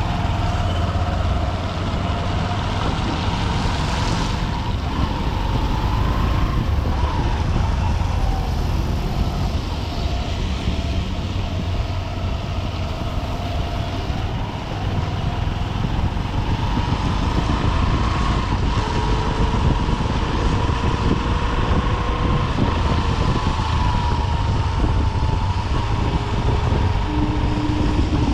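Honda SP125 single-cylinder commuter motorcycle engine running steadily in city traffic, heard from a helmet-mounted camera, with the continuous rumble of surrounding vehicles.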